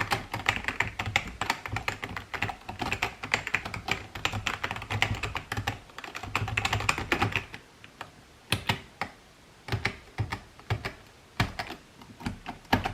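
Typing on a 1998 retro computer keyboard: a fast, dense run of key clicks, slowing at about eight seconds in to separate single key presses a second or so apart.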